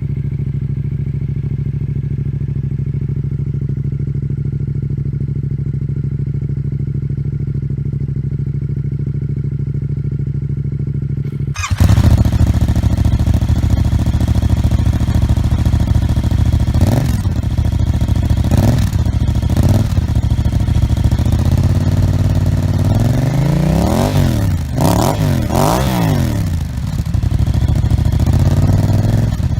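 Yamaha MT-07 parallel-twin engine idling steadily through an aftermarket exhaust. About eleven seconds in, the sound cuts to another MT-07 with an aftermarket exhaust that is louder and brighter at idle. That bike gives a few short throttle blips, then a run of revs rising and falling, and one more rev near the end.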